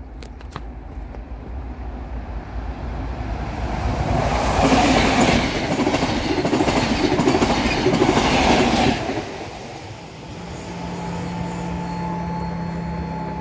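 A ScotRail Class 43 HST high-speed diesel train passing over the level crossing with wheel clatter. It builds over a few seconds, is loudest for about five seconds, then drops away quickly. Near the end a steady mechanical hum starts as the crossing barriers rise.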